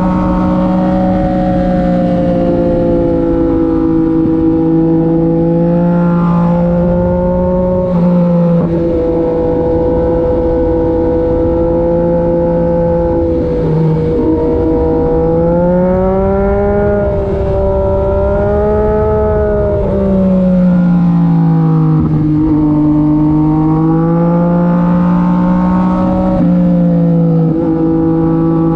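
Yamaha MT-09 SP's three-cylinder engine through an SC-Project aftermarket exhaust, running under way on a ride. The engine note rises and falls gently with the throttle, with a few brief breaks and steps in pitch along the way.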